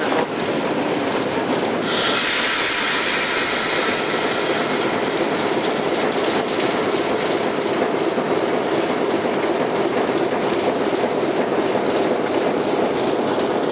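Diesel locomotive rolling along the track, heard from its side walkway: a steady rumble of engine and steel wheels on rail, with faint clicks of rail joints. About two seconds in, a harsh high-pitched hiss of wheel and rail noise comes in and stays as the locomotive moves onto the bridge.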